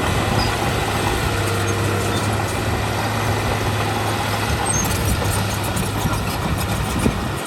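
Heavy diesel earthmoving machinery running steadily with a deep engine hum.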